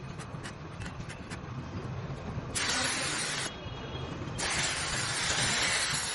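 Compressed air hissing from an air gun in two bursts, a short one of about a second and then a longer one starting just past four seconds in, after a few light clicks.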